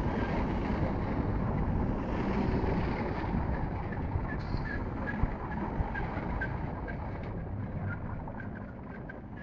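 Greater Anglia electric multiple-unit train running slowly past along the platform as it comes in to stop, a steady rumble of wheels on rail. From about halfway there is a faint regular ticking about three times a second, and the rumble eases off near the end as the train slows.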